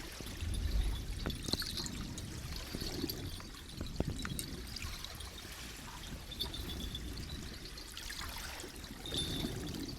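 Seawater in the harbour sloshing and trickling as a steady wash, with a few sharp clicks, the clearest about four seconds in.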